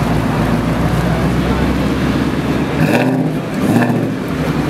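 Ford Shelby GT350R's 5.2-litre flat-plane-crank V8 running at idle as the car rolls slowly forward, with a brief change in its note twice near the end.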